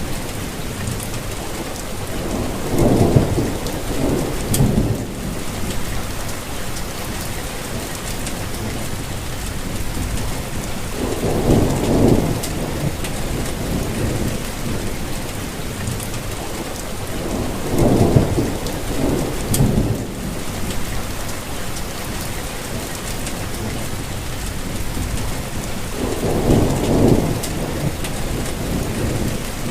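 Steady rainfall with low rumbles of thunder swelling up four times, each lasting a second or two.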